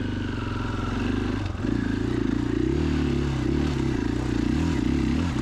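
KTM 500 EXC-F's single-cylinder four-stroke engine running under way, steady at first and then rising and falling in pitch as the throttle is worked on and off.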